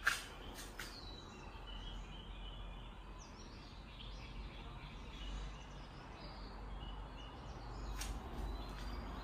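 Faint, scattered bird chirps over a low steady background hum. A sharp click comes right at the start and a smaller one about eight seconds in.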